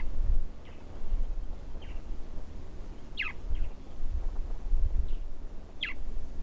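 A bird calling with sharp, high whistles that slide steeply downward: three clear ones, near the start, about three seconds in and near the end, with fainter short calls between, over a steady low rumble.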